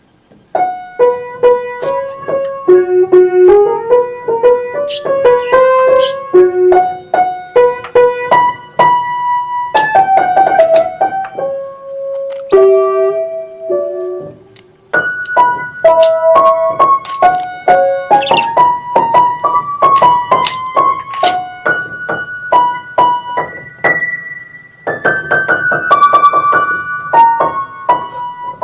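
Piano playing a quick, flowing melody of single notes, with rising and falling runs and fast repeated notes, starting about half a second in.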